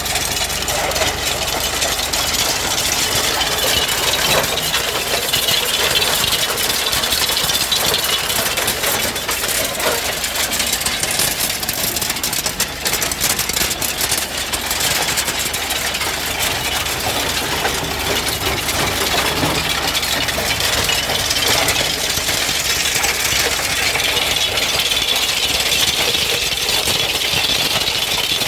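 Tractor's diesel engine running steadily, with a clattering, knocking rattle.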